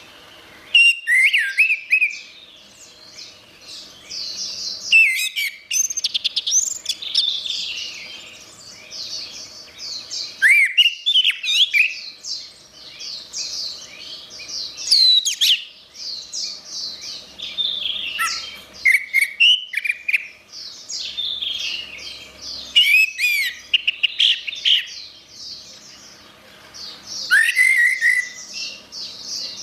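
Orange-headed thrush (anis merah) singing a long, varied song of rapid high warbling notes, with louder sweeping phrases every few seconds.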